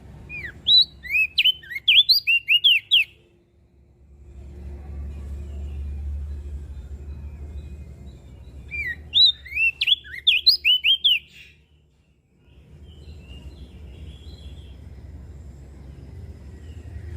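Crested white-eye (opior jambul) singing two quick phrases of about ten sharp, slurred whistled notes each, the first right at the start and the second about nine seconds in, over a low steady rumble of background noise.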